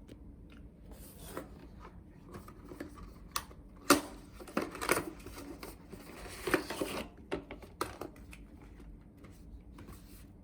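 Irregular handling noises: clicks, taps and short rustles, busiest and loudest from about four to seven seconds in.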